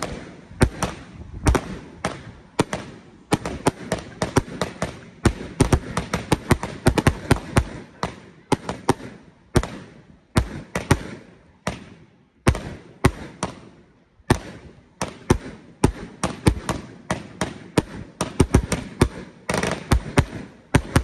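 A Black Scorpion 'Chili' 1.4G consumer fireworks cake firing shot after shot. Its tubes launch and its stars break in a rapid string of sharp reports, several a second at the busiest, with brief lulls. The firing stops right at the end.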